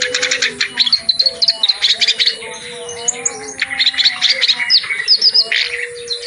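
Reed warbler (kerak basi) singing a fast, chattering song: rapid runs of harsh repeated notes mixed with short high chirps, broken by a couple of brief lulls. A lower steady tone runs underneath.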